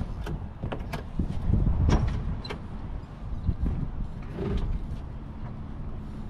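Boat engine idling with a low rumble, with several sharp knocks and bumps of the hull and fittings as the boat is pushed off from the dock.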